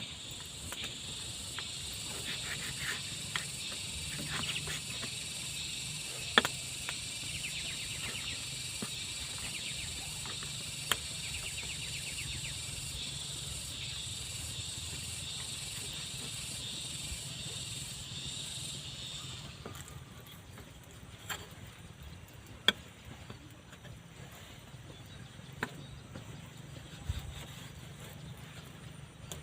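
Steady, high-pitched chorus of insects buzzing, which cuts off suddenly about two-thirds of the way through. A few sharp clicks or knocks sound at scattered moments.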